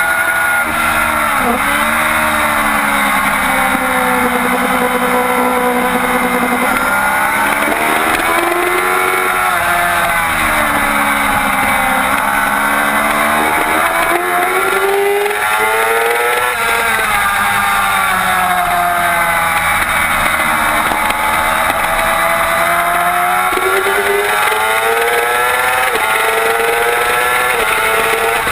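2007 Yamaha YZF-R6's 600cc inline-four running hard on a race track, its pitch climbing and falling in long sweeps as it accelerates and slows through corners, with sudden pitch steps at gear changes.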